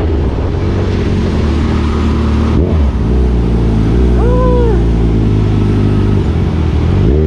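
2021 Kawasaki Z1000R inline-four engine running at steady road speed under the rider, with a short break in the engine note about two and a half seconds in and again near the end, as with a gear change. A brief rising-and-falling tone sounds about four seconds in.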